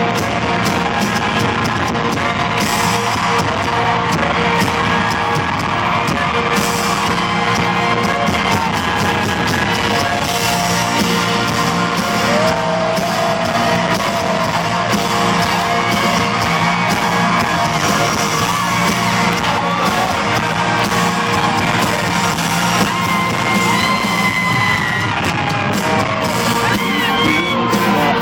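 A live country band playing loudly in a concert venue, with a crowd yelling and whooping over it, more of it near the end.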